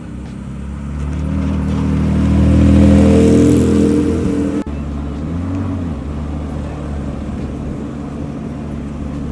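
A car engine accelerating past, growing louder and higher in pitch to a peak about three seconds in. After an abrupt cut a little before halfway, a steadier, lower engine sound runs on.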